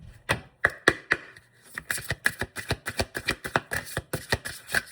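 Oracle card deck being shuffled by hand: a few separate card slaps, then a quick, even run of about four or five card slaps a second from about two seconds in.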